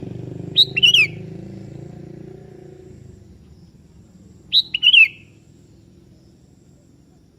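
Sooty-headed bulbul (kutilang) calling: two short phrases of a few quick whistled notes, about a second in and again about four seconds later. A low hum under the first call fades away over the first three seconds.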